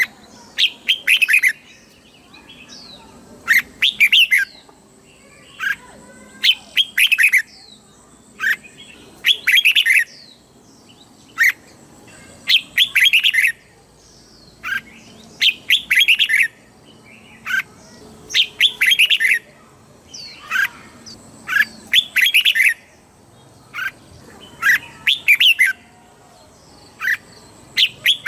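Red-whiskered bulbul singing short, bright warbling phrases over and over, about one phrase every two seconds, with brief pauses between them.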